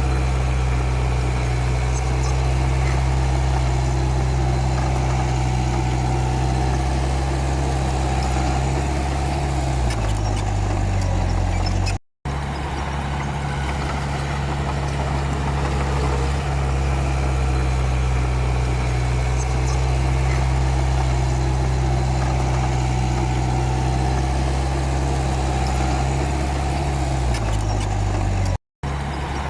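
Komatsu D31P bulldozer's diesel engine running steadily. Its pitch sags about ten seconds in and again near the end, and each time the sound cuts out abruptly for a moment.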